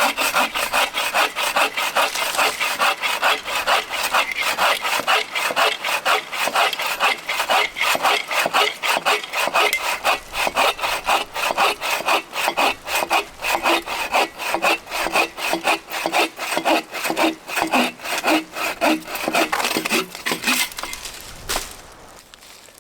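Hand saw cutting through a piece of wood for firewood in quick, steady back-and-forth strokes, about three to four strokes a second, stopping shortly before the end.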